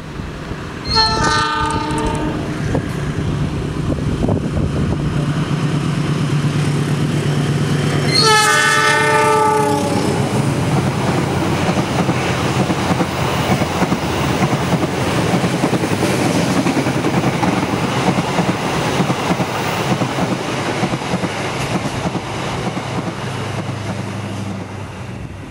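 Two diesel-hauled passenger trains passing each other on double track: a locomotive horn sounds a short blast about a second in, then a longer, louder blast around eight seconds in whose pitch drops as the locomotive goes by close. The locomotive's low engine hum falls in pitch as it passes, and the coaches then rumble and clack past, fading near the end.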